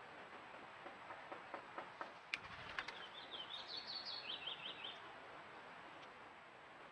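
Faint ticks in the first two seconds and a single sharp click, then a bird sings a quick series of short, high chirping notes for about two seconds.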